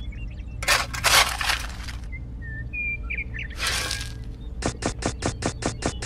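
Small crushed stones and grit rattling and scraping as a miniature toy shovel scoops them up and tips them into a toy trailer bed, twice. Then a fast, even run of clicks, about five a second, starts near the end, with a few short bird chirps in between.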